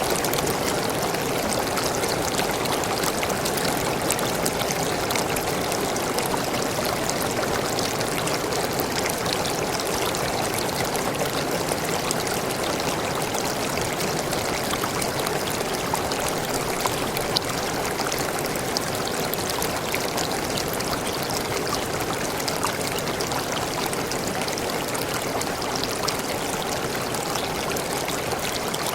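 Waterfall pouring and splashing: a steady, unbroken rush of falling water.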